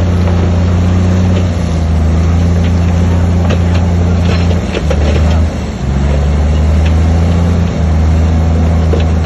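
Diesel engine of a heavy earthmoving machine running under load, its low drone shifting pitch several times as the throttle changes, with a few light clinks around the middle.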